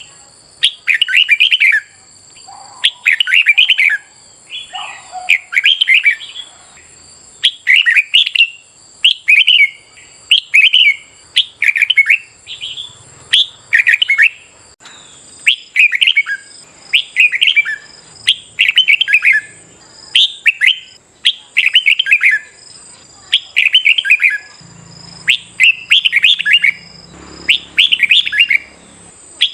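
Red-whiskered bulbul singing its fighting song: short, quick warbled phrases repeated about once a second.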